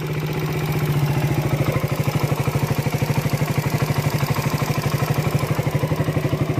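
First-generation Suzuki Raider motorcycle engine idling with an even, rapid beat, settling into a steady idle within about a second. It is running again just after an engine refresh with valve shimming.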